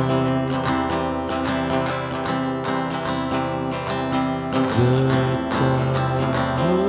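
Acoustic guitar strumming chords in an instrumental stretch of a song, the chord changing about two-thirds of the way through and again near the end.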